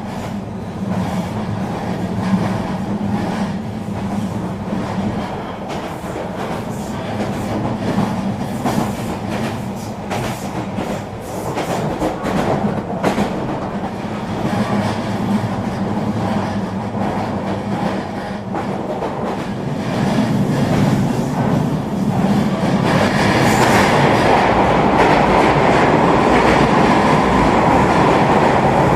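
Eurobahn regional electric train running on the line: steady rolling noise with clicks of the wheels over rail joints, growing louder and brighter in the last third.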